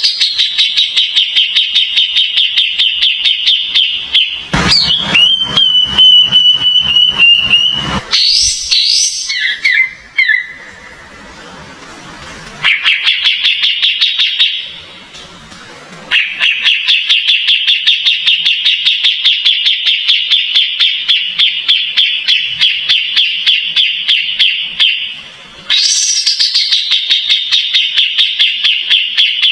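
Kapas tembak songbird singing long, loud, rapid chattering trills, broken by short pauses. Between about five and eight seconds in there is a steadier whistled phrase instead.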